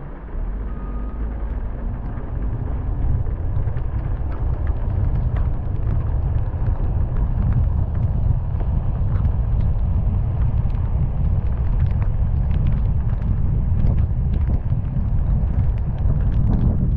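Car driving through heavy rain: a low rumble of road and wind noise that jumps up about half a second in and keeps building, with scattered ticks of raindrops.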